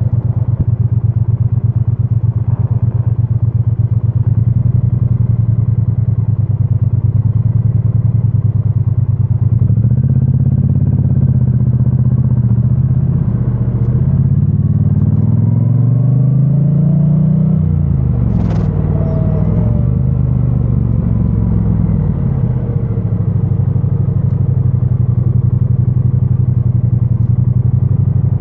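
2022 Triumph Bonneville T100's parallel-twin engine running through its stock exhaust. It holds a steady low note at first. From about ten seconds in, the revs rise and fall several times as the bike accelerates, shifts and slows, with one brief sharp high click in the middle. It settles back to a steady low note near the end.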